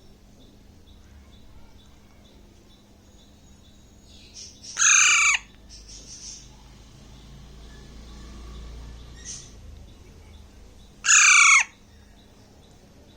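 Baby Alexandrine parakeet calling twice, about six seconds apart. Each call is a loud, harsh screech about half a second long, falling in pitch.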